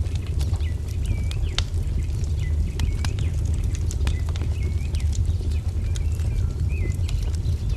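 Wood fire crackling with sharp pops over a steady low rumble, while a songbird repeats short chirps about once a second.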